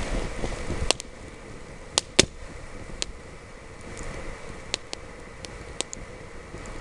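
Small wood campfire crackling, with scattered sharp pops, the loudest two close together about two seconds in, over light wind noise on the microphone.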